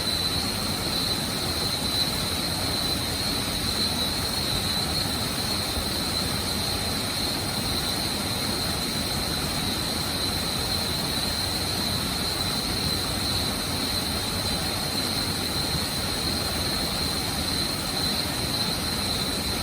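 Waterfall rushing: a steady, unbroken roar of falling water, with a thin steady high-pitched tone over it.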